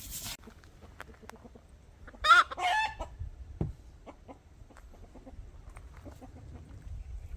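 A chicken gives one loud, short call about two seconds in, in two parts with a bending pitch, among faint scattered knocks and taps.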